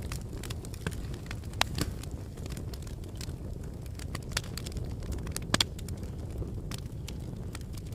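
Fireplace fire burning with a steady low rumble and scattered sharp crackles and pops, the loudest a quick double pop about five and a half seconds in.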